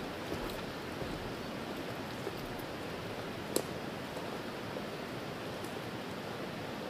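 Steady rushing outdoor background noise, like rain, running water or wind in trees, with scattered faint ticks and one sharp click about three and a half seconds in.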